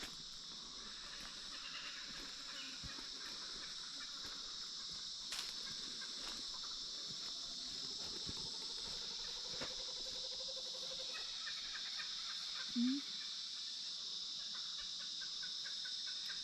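Steady high-pitched chorus of insects, with scattered faint clicks and one short rising call about thirteen seconds in.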